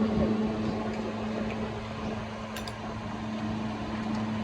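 Steady machine hum holding one low tone, with a faint metallic click about two and a half seconds in.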